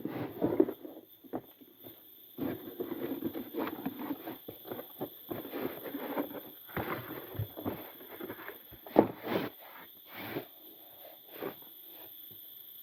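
Irregular rustling, clicks and knocks of objects being handled, loudest about nine seconds in, with a steady high tone underneath.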